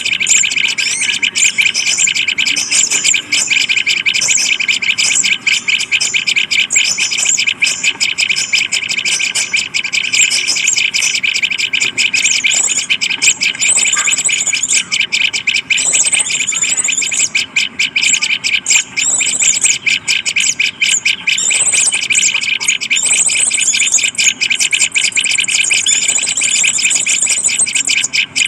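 Small birds chirping in a dense, continuous high-pitched chatter of rapid notes.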